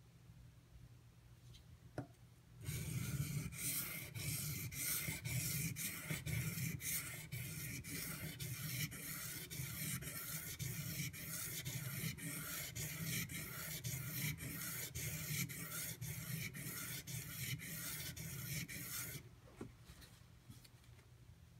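AUS-8 steel knife blade scraped back and forth across a Shapton Pro waterstone, a steady run of about two to three strokes a second for some sixteen seconds that starts just after a light click and stops abruptly. The strokes are grinding the uneven tanto edge to reprofile it.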